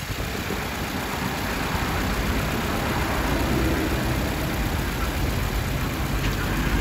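Subaru Impreza's flat-four boxer engine idling steadily, heard from the open engine bay.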